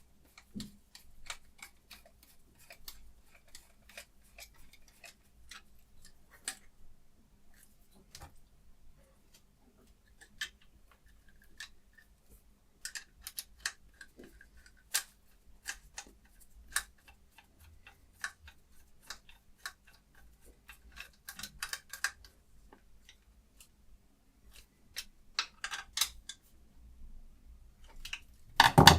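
Irregular small clicks and taps, with a few brief scrapes, from handling a knife and diamond stone on a Hapstone RS guided knife sharpener. A sharper knock comes near the end.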